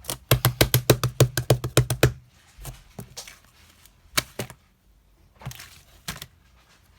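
Keyboard typing: a fast run of key clicks for about two seconds, then a few scattered clicks.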